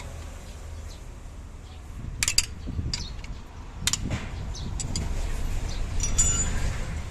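Metal hand tools clicking and clinking on the rocker arms of an Isuzu 6HH1 diesel engine while a valve clearance is adjusted. There are a few sharp, separate clicks, and one ringing metallic clink a little after six seconds.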